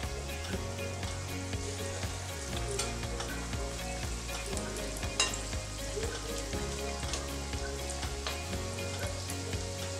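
Saltfish fritter batter frying in hot vegetable oil in a pan: a steady sizzle with scattered crackles and pops.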